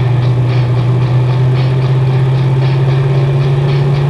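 Turbocharged LS V8 engine of a drag car running steadily at low, even revs while the car rolls along, its pitch starting to rise near the end.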